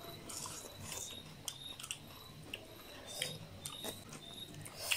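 Close-miked mukbang eating sounds: people chewing a meal of rice and bamboo shoot curry, with wet mouth smacks and small clicks scattered irregularly through.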